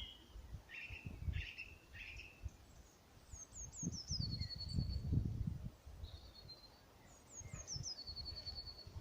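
Songbirds singing: one bird repeats a short phrase of high down-slurred whistles ending in a fast trill, about every four seconds, while another gives shorter notes in the first two seconds. Irregular low rumbling noise runs underneath.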